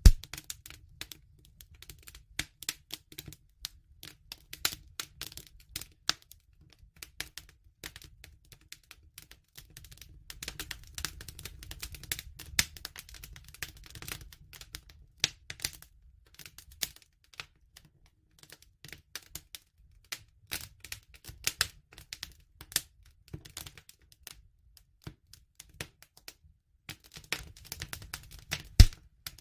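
Campfire crackling: irregular sharp pops and snaps of burning wood over a low rumble of flame that comes and goes. There is a loud pop right at the start and another near the end.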